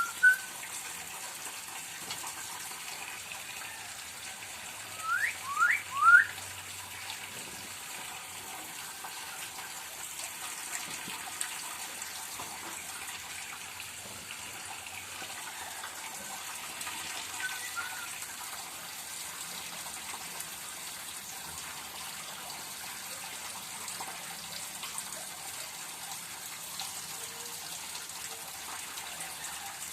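A murai songbird gives three quick rising whistled notes about five seconds in, then a faint short call later on, over a steady rushing noise like running water.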